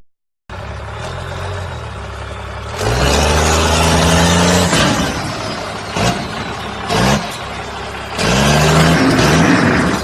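Diesel truck engine revving: a rise in pitch held for about two seconds, then two short blips, then another long rev near the end.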